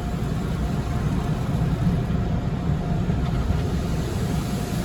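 High-pressure rinse jets of a Tommy's Express tunnel car wash spraying over a car, heard from inside the cabin as a steady low rush of water, with the car's engine idling underneath.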